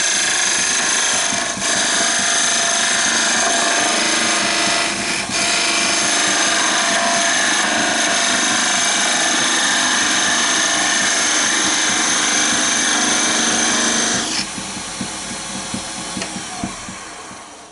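Wood lathe spinning a hardwood blank while a turning tool cuts straight in, a loud steady scraping hiss with a high whine. The cut stops about 14 seconds in; the lathe runs on more quietly and then winds down near the end.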